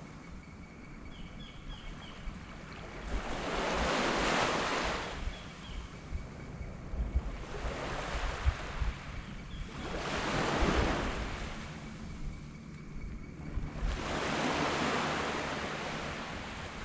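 Sea waves breaking and washing up a black sand beach, three swells rising and falling in turn, with wind buffeting the microphone.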